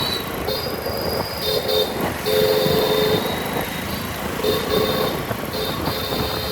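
Vehicle horns sounding in a string of short and longer blasts amid traffic, over a steady bed of motorcycle engine and road noise.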